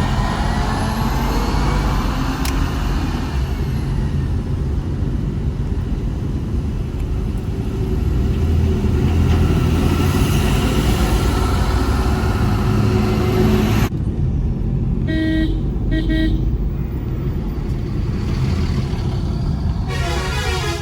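Vehicle engine and road noise on a hilly road, a steady heavy rumble. Two short horn honks come about fifteen seconds in, and a warbling multi-tone horn sounds near the end.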